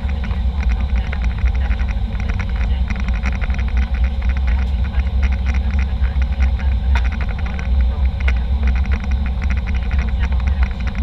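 Steady airliner cabin noise: a deep, continuous rumble from the engines and the airflow, overlaid by a constant fine rattling and crackling.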